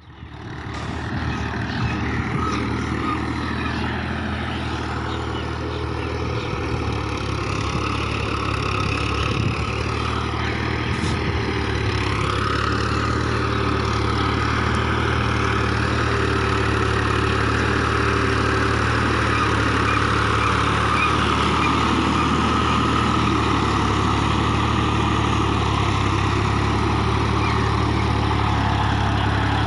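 Fiat 480 tractor's three-cylinder diesel engine running steadily, fading in at the start and growing slightly louder.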